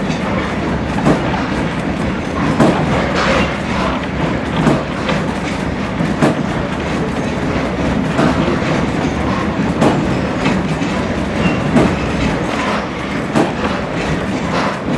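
Passenger railroad coach riding on the rails: a steady rumble with irregular clacks and knocks from the wheels passing over rail joints.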